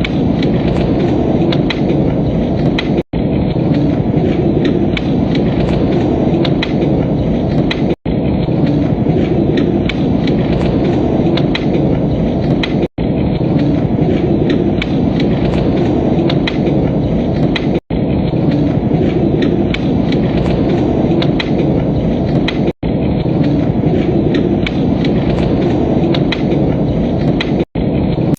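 Wood fire crackling and popping over a steady low rumble, played as a short loop that cuts out for a split second about every five seconds.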